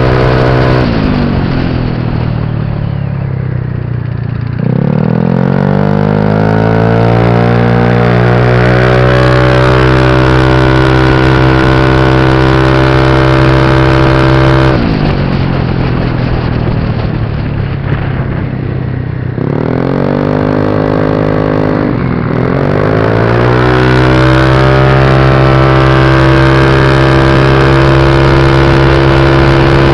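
Motor scooter engine under hard acceleration. Its note climbs and then holds steady at high revs. The throttle closes about a second in, again near the middle and once more a few seconds later, and each time the note drops before climbing back.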